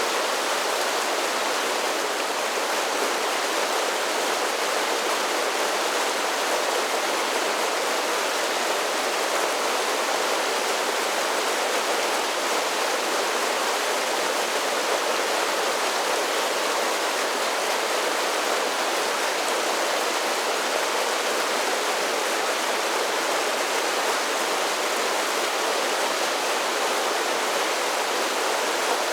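Mountain creek cascading over a series of small waterfalls: a steady rush of falling water, even and unbroken throughout, with little deep rumble.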